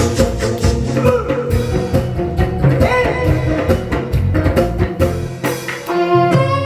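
Live band music: a song played with drum kit and guitar, with a voice singing over the beat.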